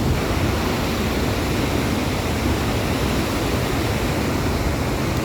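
Victoria Falls' main falls: heavy water pouring down in a loud, steady rush of noise.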